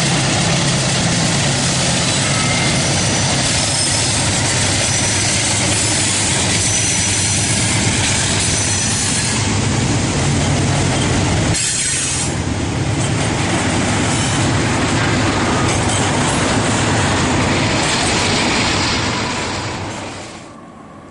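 CSX freight train passing close by: the GE C40-8W and C40-8 diesel locomotives run past first, then double-stack container cars roll by with steady wheel and rail noise. The sound fades out near the end.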